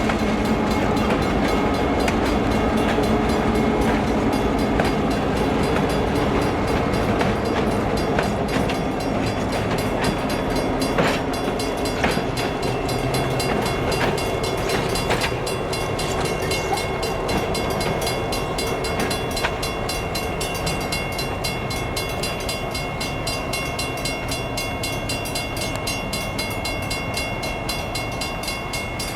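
A diesel-hauled freight train running on the rails: a steady rumble of the locomotives' engines and rolling cars. The engine tones are strongest at the start and fade, and a few sharp wheel clicks come about halfway through.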